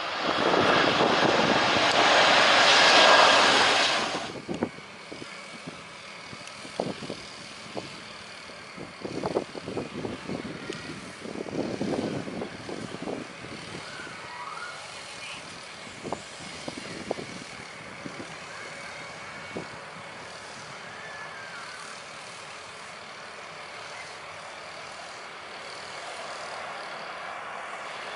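Jet airliner passing low overhead on landing approach: a loud engine roar that falls away about four seconds in. After that, a quieter background of distant jet noise with scattered short knocks, and the noise starts building again near the end as the next aircraft approaches.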